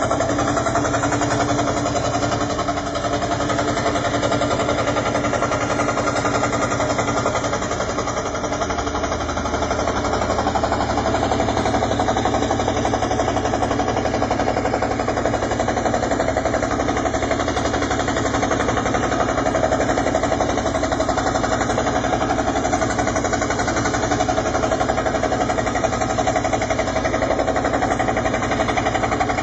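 Scroll saw running steadily, its blade moving rapidly up and down as it cuts a wooden jigsaw puzzle.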